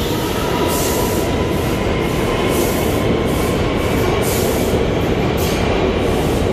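R179 subway train pulling out of the station, running steadily loud with a faint motor whine and regular beats of wheel noise, about one and a half a second.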